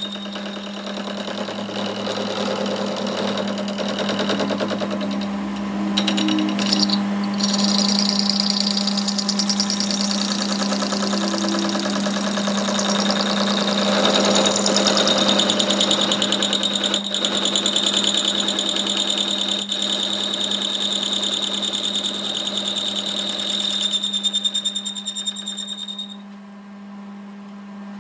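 A workshop machine running steadily with a constant hum and a rattling chatter, dropping in level and losing its high whine about 26 seconds in.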